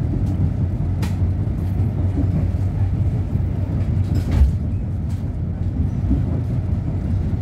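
Train rumbling steadily, a low rumble with a hum under it. A sharp click comes about a second in, and a knock around four seconds in.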